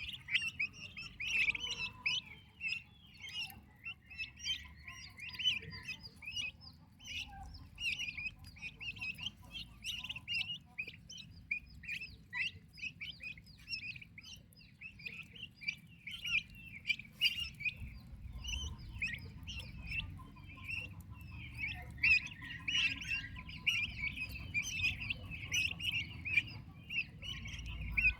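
A group of turkey poults peeping continuously: many short, high chirps overlapping one another.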